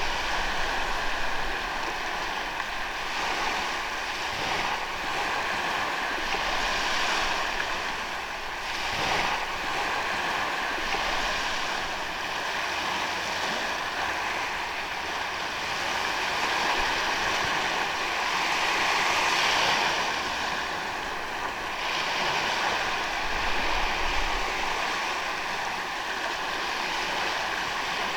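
Ocean waves washing onto a sandy beach: a continuous surf hiss that swells and eases every few seconds.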